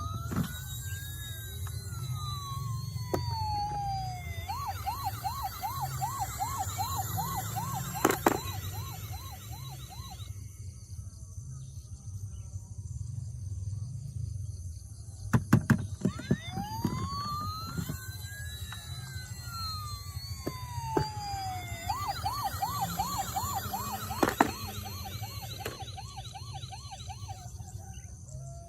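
Toy emergency vehicle's electronic siren: a slow wail rising and falling, then a fast yelp, the whole pattern playing twice, with a few sharp clicks along the way.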